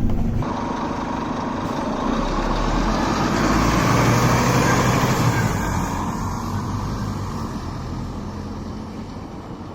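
A Scania K280UB city bus's diesel engine running, picked up by a phone microphone. It grows louder to a peak about four to five seconds in, then fades steadily.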